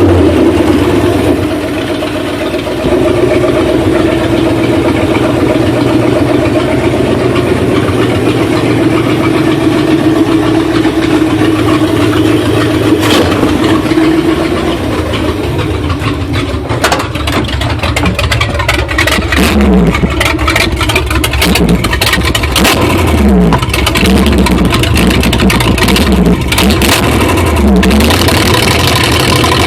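A 1977 Ford F-150's 351M V8 runs roughly, the engine's first run. Its speed rises and sags, and in the second half it dips and recovers several times while many sharp clicks and pops sound through it.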